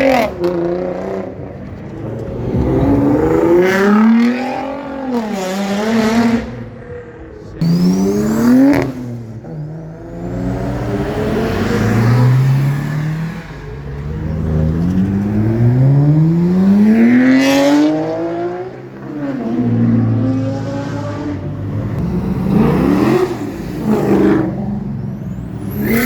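Car engines revving up as cars accelerate away one after another, each engine note climbing in pitch and dropping back several times.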